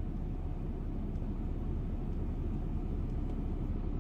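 Steady low rumble of a car driving on a road.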